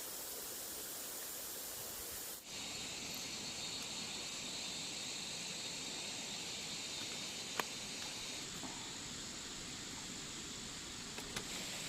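Steady high-pitched outdoor hiss that shifts and brightens about two and a half seconds in, with one sharp click a little past the middle and a couple of faint ticks near the end.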